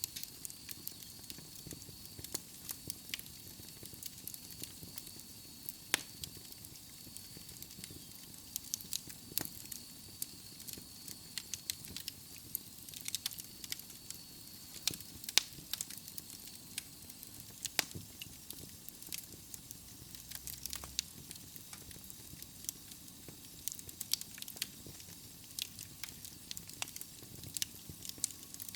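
Wood fire burning in a fireplace: a steady soft hiss with irregular sharp crackles and pops from the burning logs, a few louder pops among them.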